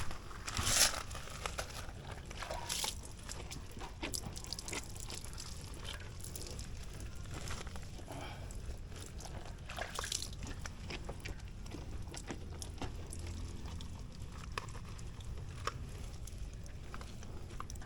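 Hand car wash: water sloshing and trickling from a wash bucket and over the car body, with scattered small knocks and clicks.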